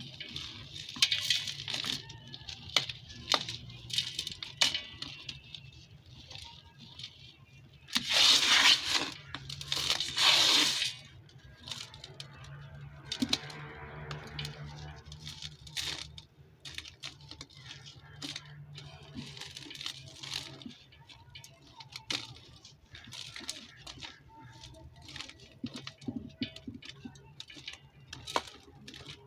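Dry, dusty red dirt and sand-cement chunks crumbling and crunching in a stream of sharp crackles, with two louder, longer crumbles about eight and ten seconds in. A steady low hum runs underneath.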